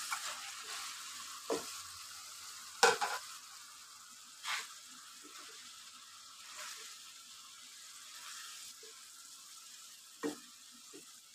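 Hot masala sizzling in a wok as boiled noodles are tipped in and tossed with spatulas, the sizzle slowly dying down. A few sharp clacks of the utensils against the pan, the loudest about three seconds in, another near the end.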